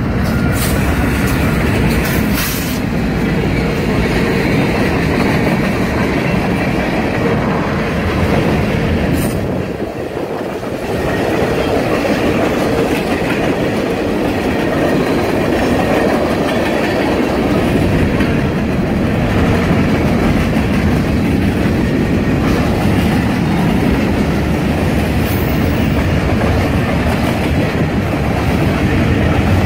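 Norfolk Southern freight train passing close by: the diesel locomotives go by, then a string of covered hopper cars rolls past with a steady rumble and clickety-clack of wheels over rail joints. A few brief sharp sounds stand out in the first few seconds and again about nine seconds in.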